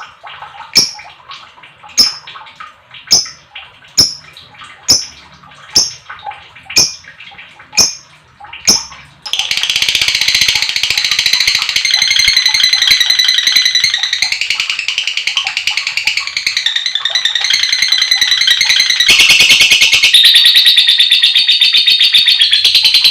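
Lovebird calling. For about nine seconds it gives sharp, high chirps about once a second. From about nine seconds in it breaks into one long, fast, unbroken chatter, the long 'ngekek' song.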